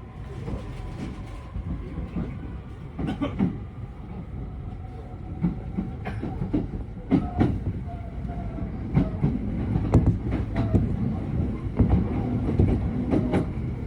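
JR East E653 series electric train rolling slowly over the rails, its wheels clacking irregularly over rail joints and points above a steady low rumble. The clacks grow louder in the second half, and a faint steady tone comes and goes.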